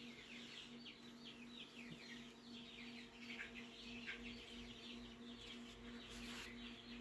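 A brood of young chicks peeping: many faint, high, quick downward-falling peeps overlapping continuously, with a faint steady low hum beneath.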